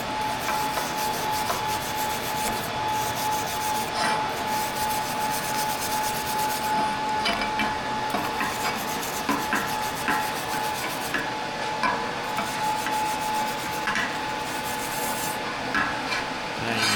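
Wire brush scrubbing back and forth over a fresh TIG weld on stainless steel plate, cleaning off the weld's heat discolouration. It is a continuous scratchy rasping, with a steady faint hum underneath.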